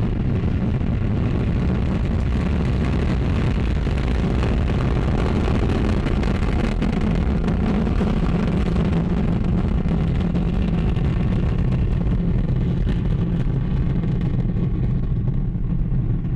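Ariane 5 rocket's Vulcain main engine and two solid rocket boosters at full thrust just after liftoff: a loud, steady, deep rumble with crackling throughout.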